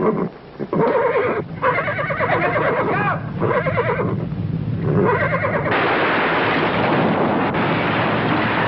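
A horse neighs several times in wavering, rising and falling whinnies. About six seconds in, a loud, steady rushing noise sets in and keeps going.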